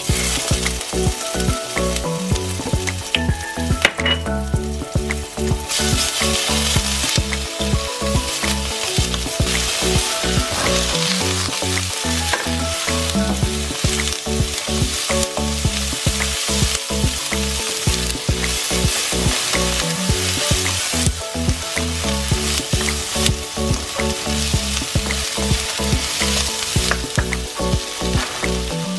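Shishito peppers frying in hot oil in a nonstick wok, sizzling steadily while they are stirred with a wooden spatula, with small scrapes and clicks. The sizzle grows louder about six seconds in.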